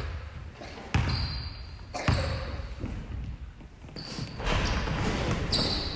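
Basketball bouncing on a gym floor: a couple of hard bounces about a second apart, with short high squeaks and echo from the hall.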